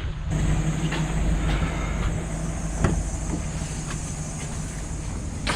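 Pickup truck's engine running with a steady low hum, with a few light clicks and knocks scattered through it.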